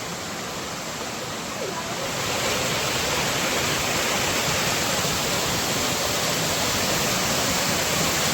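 Waterfall: a steady rush of falling water that grows louder over the first two or three seconds, then holds steady.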